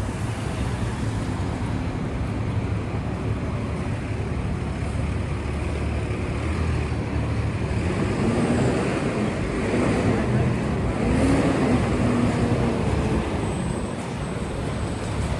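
City street traffic: vehicles passing steadily with a low rumble, mixed with passers-by talking. It gets a little louder from about eight seconds in to about twelve.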